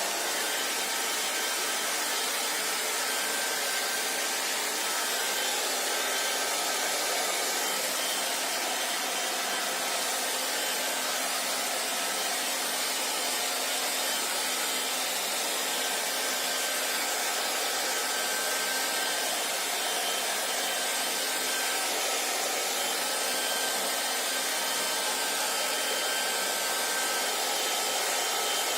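Handheld hair dryer blowing steadily: an even rush of air over the hum of its fan motor, with a faint steady whine, unchanging throughout.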